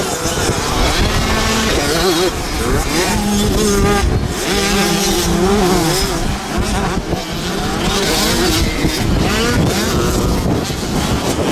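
Several motocross motorcycles running on the track, their engines revving up and down through the gears as they pass.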